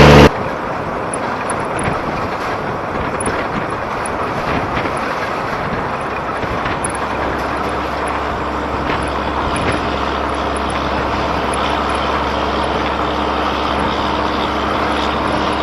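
A vehicle running steadily: an even rushing hiss over a faint low hum.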